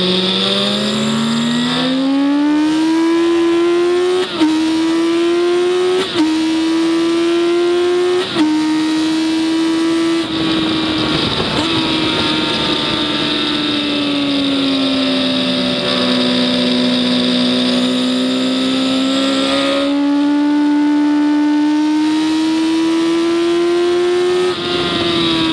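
Race engine heard onboard at speed, climbing in revs with three quick gear changes about two seconds apart. It eases off for a corner about ten seconds in, then pulls steadily up again, with another gear change just before the end.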